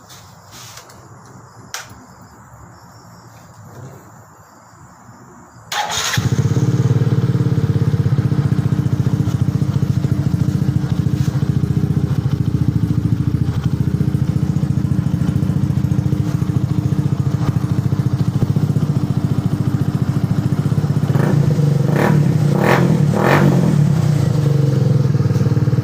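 Modenas V15 motorcycle with a modified exhaust: the engine starts about six seconds in and then idles steadily with a low note. Near the end come three quick throttle blips.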